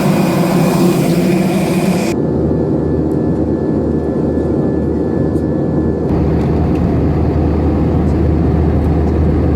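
Loud, steady jet airliner noise from an Airbus A321, in three spliced clips that cut abruptly about two and six seconds in, each with a deep steady hum.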